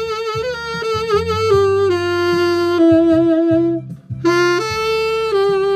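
Solo saxophone playing a slow melody of held notes with vibrato over a backing track with bass, with a short breath break about four seconds in.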